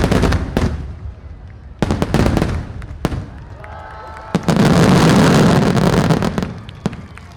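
Fireworks display: aerial shells bursting with several sharp bangs over the first three seconds, then a loud, dense stretch of bursts and crackle for about two seconds that fades away.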